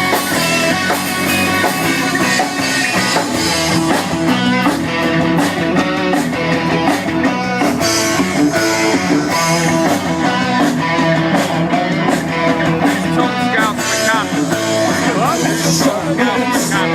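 Live rock band playing an instrumental passage, with electric guitar and drums.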